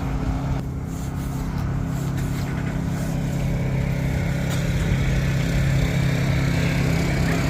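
A motor vehicle's engine running steadily, a low hum that grows a little louder toward the end.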